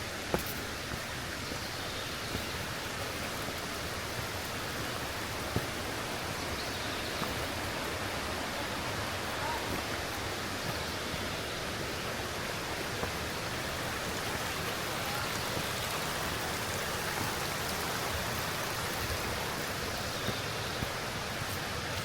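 Steady rushing of flowing water from a stream or waterfall, with a couple of brief clicks.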